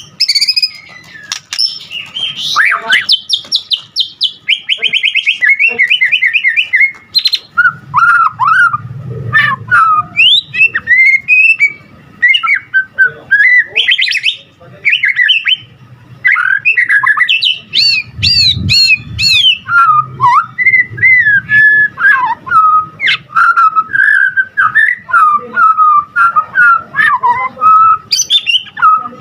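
White-rumped shama (murai batu) singing continuously: a long, varied song of whistles, chattering phrases and fast trills. A few seconds in comes a run of rapid repeated notes; later the song drops to lower warbled phrases.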